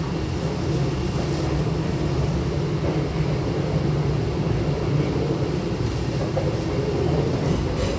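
Steady running noise of a Hankyu Railway electric train heard from inside the car: a continuous low rumble of wheels and running gear on the rails while the train travels at speed.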